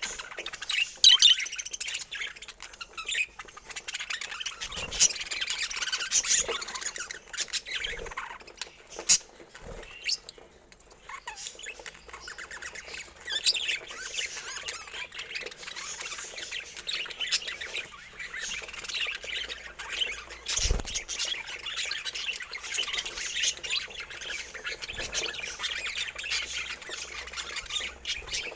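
Budgerigars chattering, warbling and squawking without a break, with a few sharp clicks among the chatter.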